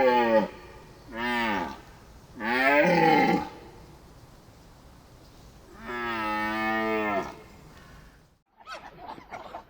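A bovine mooing: four long, drawn-out calls, their pitch bending and falling, with gaps of a second or more between them. After a brief cut near the end a different, quick chattering animal sound begins.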